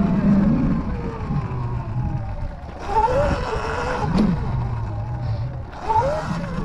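Sur-Ron Light Bee X electric dirt bike riding over grass, its motor whine rising and falling as the throttle is opened and eased, with wind buffeting the microphone. The whine swells twice, about halfway through and near the end.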